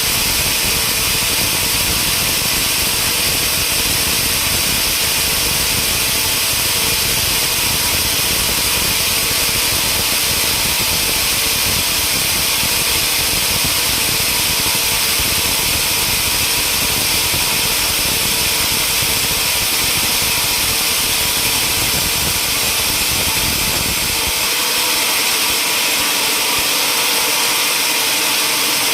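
Sawmill machinery running steadily, a loud continuous whir that is strongest in the high range; the low rumble under it drops away abruptly a little before the end.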